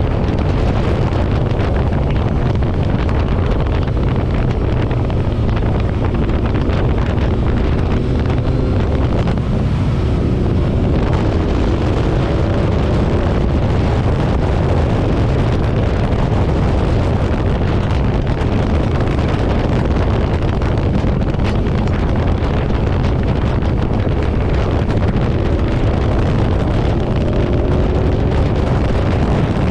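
Heavy wind buffeting on the microphone over a motorcycle engine running at road speed. The engine note rises a few times as it speeds up.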